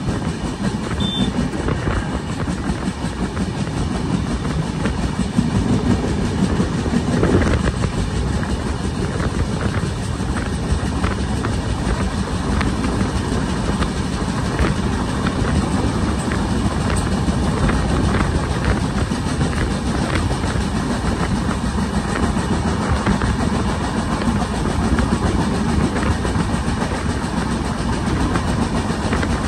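Indian Railways passenger train running at speed, heard from an open coach doorway: a steady rumble of wheels on rail mixed with rushing wind, with faint clicks now and then as the wheels cross rail joints.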